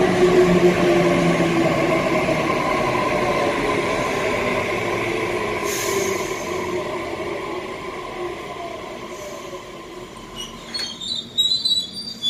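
Electric suburban train running on the line, its motor and wheel noise with a few steady tones fading steadily as it moves away. Brief high-pitched squeals come near the end.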